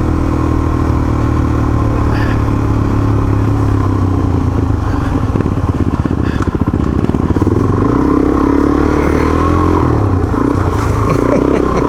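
Motorcycle engine running under way on a dirt track, its pitch climbing about eight seconds in as the bike accelerates.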